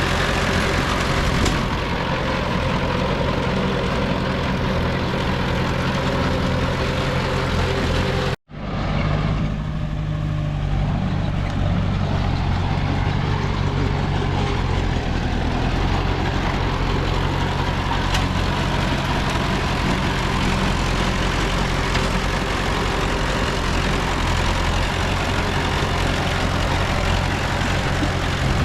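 Heavy diesel engines of earthmoving machinery running steadily. The sound cuts out for a moment about eight seconds in, then comes back.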